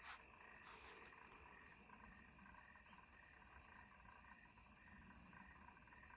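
Faint chorus of frogs and insects, with a steady high-pitched trill.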